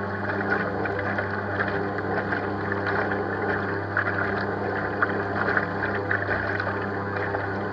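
Radio-controlled bait boat's electric motors running steadily, a constant hum with water churning from the propellers.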